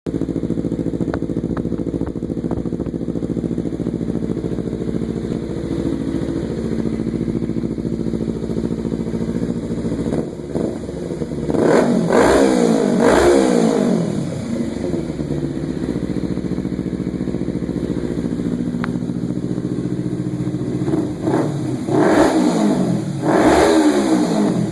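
Kawasaki Ninja 300's parallel-twin engine running through a Leo Vince SBK GP Corsa slip-on exhaust. It idles steadily, is revved twice in quick succession about halfway through, drops back to idle, and is blipped twice more near the end.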